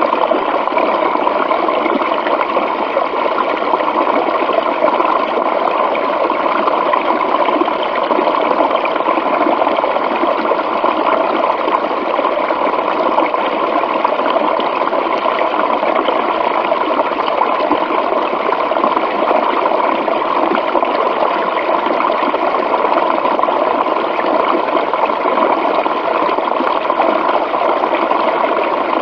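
Natural running water flowing steadily, an even splashing with little deep rumble.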